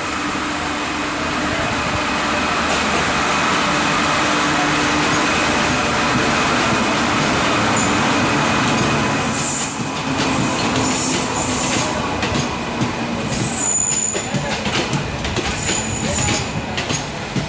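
Passenger train pulling in alongside a station platform. A steady, loud rolling rumble builds through the first half. Past the middle it turns into an uneven clatter of wheels, with brief high squeals.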